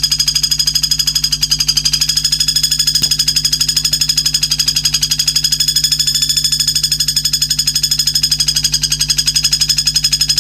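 A high-pitched, buzzing trill played from a filler-song (isian) recording for training white-rumped shamas. It pulses evenly at about a dozen beats a second without a break, over a low steady hum.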